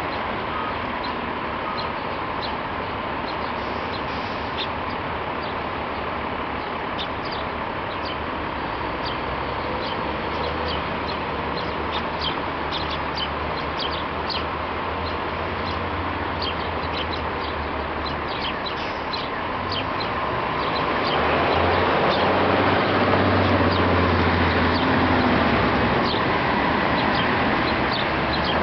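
Birds calling, with many short high chirps over a steady low background rumble; the calling grows louder and fuller about two-thirds of the way through.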